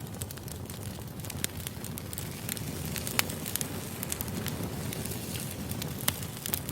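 Firewood burning, with irregular sharp crackles and pops over a steady low rumble of flames. One louder pop comes about three seconds in.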